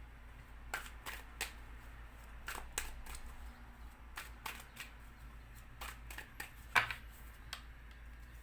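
Tarot cards being handled and laid out on a table: a series of short, light snaps and taps at irregular intervals, the loudest about seven seconds in, over a faint steady hum.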